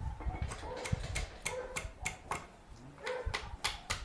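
Irregular run of sharp clicks and taps, several a second, from hand-tool work on a tractor.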